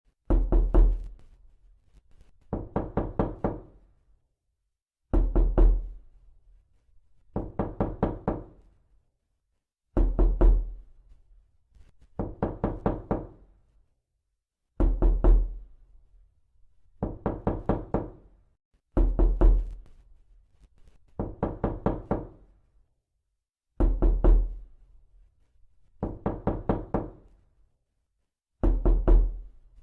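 Knocking on a door: quick groups of four or five raps repeated about every two and a half seconds, with a pause between groups. Every other group opens with a heavier, deeper thump.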